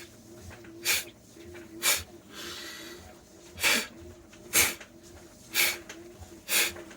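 A person forcefully pushing breath out on an "F" sound, driven from the diaphragm: six short, sharp puffs, about a second apart, with a softer, longer breath in after the second.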